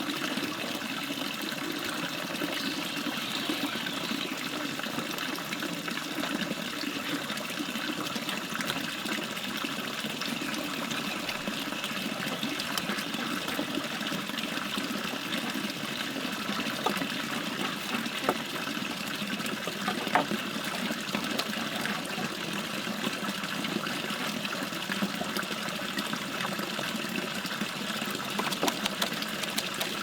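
Stream water running steadily, with a few sharp clicks a little past the middle.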